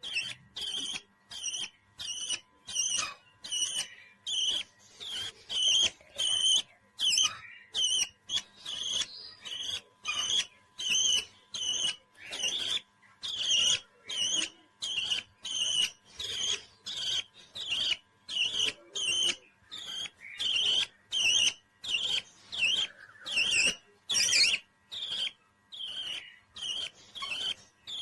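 Parrot calling in an even run of short, high chirps, about three every two seconds.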